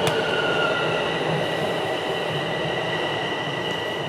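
Toronto subway train running alongside the platform: a steady rumble with two steady high whines, slowly getting quieter. A single sharp click at the very start.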